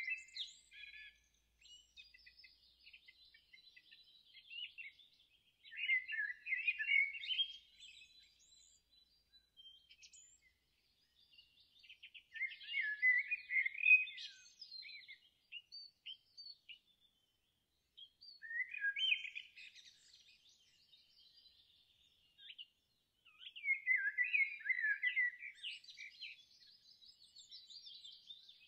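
Songbirds singing: a short, busy song phrase of quick high notes comes four times, about every six seconds, with fainter scattered chirps in between.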